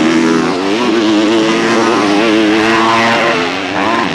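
Motocross bike engines revving on the track, their pitch rising and falling as the riders work the throttle, with more than one engine heard at once.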